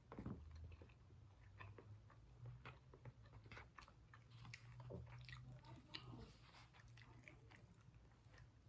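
Close-up eating sounds, quiet chewing of chicken and noodles with soft irregular mouth clicks and smacks, over a low steady hum.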